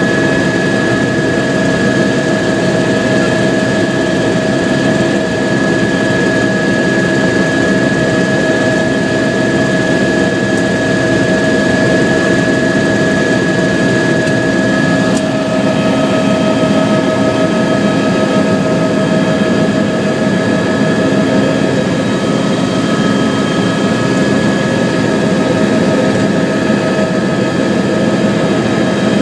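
Helicopter in flight: a steady, loud drone of engine and rotor with high whining tones over it, which shift a little in pitch about halfway through.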